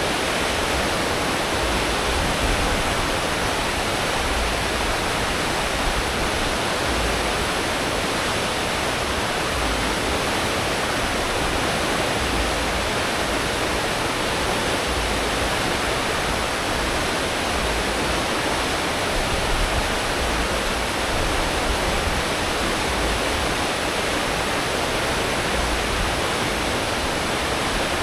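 Cruise ship's wake churning and rushing behind the stern at full speed, a steady loud water roar from the propellers' wash, with an uneven low rumble of the engines underneath.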